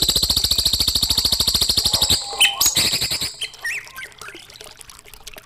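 Songbird masteran (training song): a fast, even rattling trill for about two seconds, then breaking into a quick run of separate chirps and whistles that fade to faint scattered notes.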